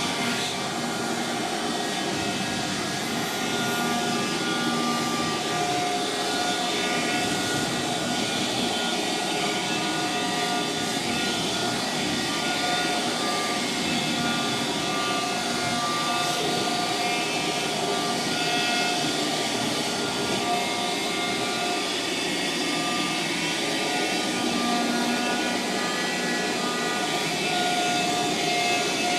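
Vacuum cleaner fitted with a long nozzle running steadily, sucking caked dust out of a PlayStation 4's plastic casing, its motor giving a steady whine with several held tones.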